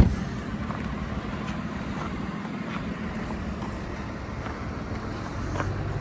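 Low, steady vehicle rumble with wind noise on the microphone, and a single sharp knock at the very start.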